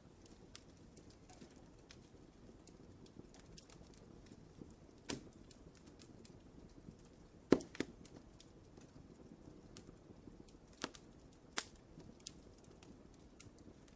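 Wood fire crackling in a fireplace: scattered small pops over a soft low hiss, with one sharp, loud pop about halfway through and a few more near the end.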